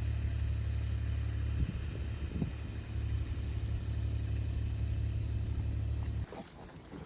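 A steady low rumble that cuts off suddenly about six seconds in.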